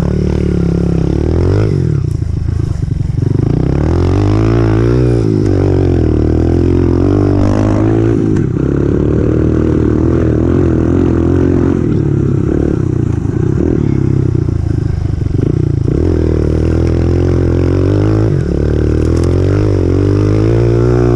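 2018 Honda CRF125F dirt bike's single-cylinder four-stroke engine running under way, its pitch rising and falling again and again as the throttle is opened and closed.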